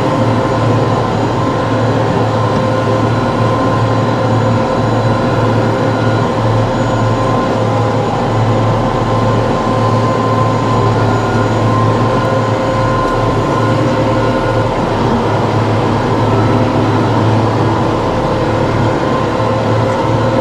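TYM T654 tractor's diesel engine running steadily under load, a constant loud machine drone with a steady hum.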